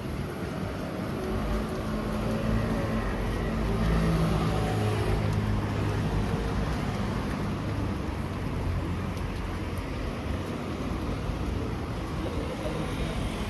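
Street traffic: a motor vehicle's engine runs close by over a steady low rumble of road noise, loudest a few seconds in.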